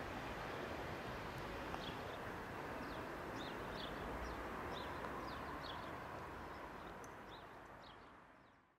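Small birds chirping again and again in short high calls over a steady background hiss of outdoor ambience, all fading out near the end.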